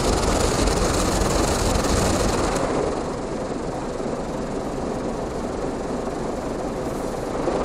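Automatic car wash machinery heard from inside the car: a steady rushing rumble that drops a little about three seconds in and swells again near the end.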